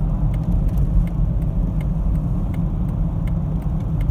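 Steady low rumble of road and engine noise inside a moving Peugeot 306 XSi's cabin, with faint light ticks scattered through it.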